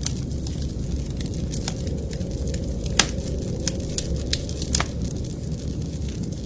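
Wood fire crackling, with sharp pops at irregular moments, the clearest about halfway through, over a steady low rumble.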